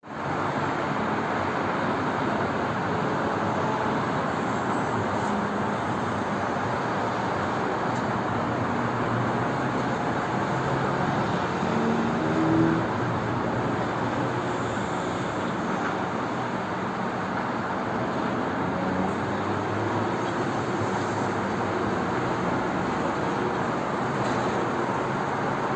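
Steady road-traffic noise of trucks running, with an engine note rising briefly about halfway through, the loudest moment.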